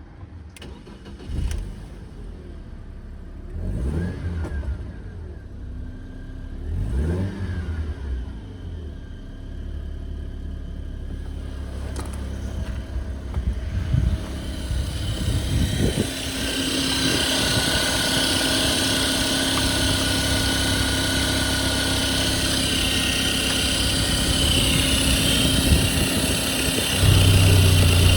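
BMW M43B19 1.9-litre four-cylinder petrol engine running and revved: it is blipped several times, rising and falling in pitch. After about halfway it runs steadily and louder, with a steady whine over the engine note.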